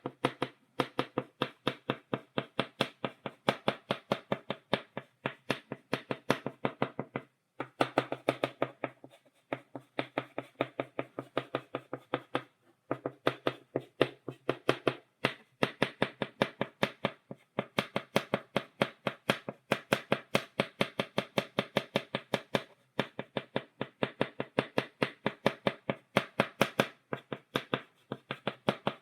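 Chalk tapped repeatedly on a blackboard, stippling dots: quick, even taps about five or six a second, in runs broken by a few short pauses.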